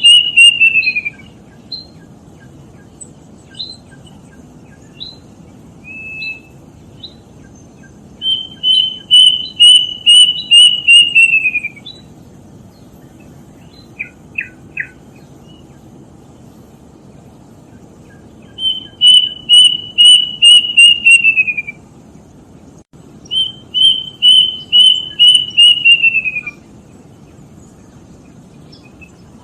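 Kedasih cuckoo singing: a loud run of about eight quick, repeated whistled notes that slide down in pitch at the end, given four times, with a few short faint chirps in between. A steady low hiss lies underneath.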